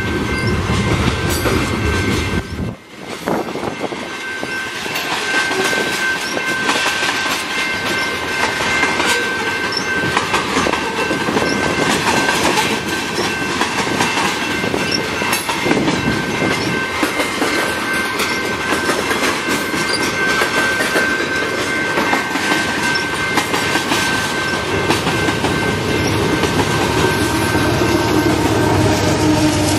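A Canadian Pacific freight train's covered hopper cars roll steadily past, their wheels clattering over the rail joints. A thin, steady, high-pitched tone runs over the clatter and fades after about halfway. There is a brief drop in level about three seconds in.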